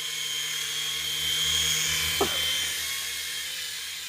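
Toy remote-control Black Hawk helicopter in flight: its small electric motors and rotors give a steady high-pitched whine, a little louder in the middle. A short falling voice-like sound comes about two seconds in.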